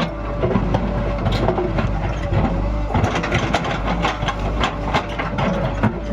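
JCB 3DX backhoe loader's diesel engine running steadily while loading mud, with a faint wavering whine above the engine and many short knocks and clatters scattered throughout.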